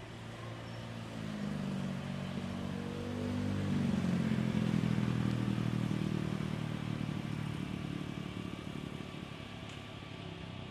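An engine passing by: it swells from about a second in, is loudest about four to six seconds in, then fades with a slight drop in pitch.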